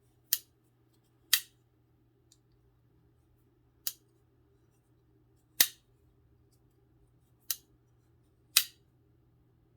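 Chris Reeve Sebenza 31 frame-lock folding knife being opened and closed by hand: six sharp metallic clicks, one to two and a half seconds apart, as the blade snaps open and shut.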